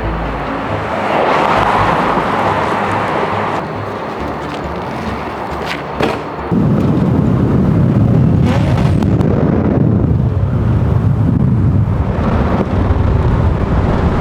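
A car engine at a car meet. For the first few seconds there is lighter, hissy engine and traffic noise, then about six and a half seconds in a loud engine comes in suddenly and keeps running with a deep, rough exhaust note, heard as a really good sound.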